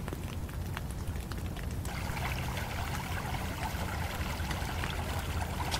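Steady hiss of rain falling and river water running; the sound grows fuller and brighter about two seconds in.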